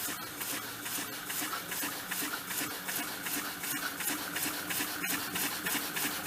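A small polished-brass PSE vertical steam engine running on compressed air at about 4 PSI, its exhaust puffing in a fast, even beat of about five a second. It is running smoothly and quietly, with the timing spot on.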